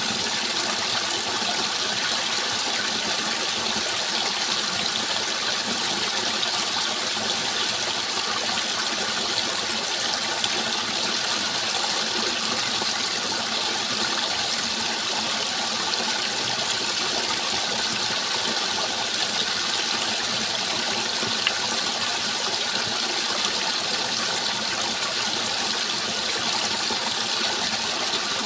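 Steady rushing water, an even hiss that holds unchanged throughout.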